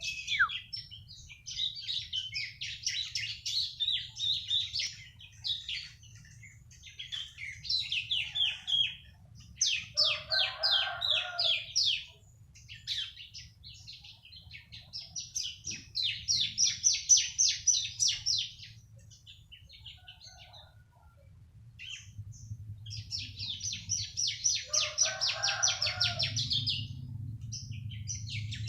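A three-month-old bar-winged prinia (ciblek) singing in bouts of several seconds, each a rapid run of high, evenly spaced chirps, with short pauses between bouts. A faint low hum sits underneath and grows louder near the end.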